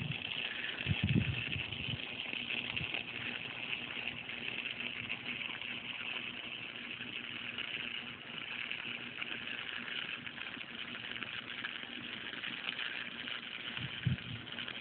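Electric welding arc crackling steadily as a weld is laid, with a couple of low thumps about a second in and near the end.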